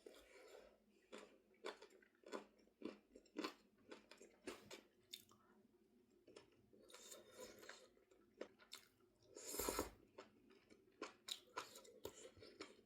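A person chewing and biting food, with faint crunchy clicks every second or so. A louder, rougher noise lasting about half a second comes about nine and a half seconds in.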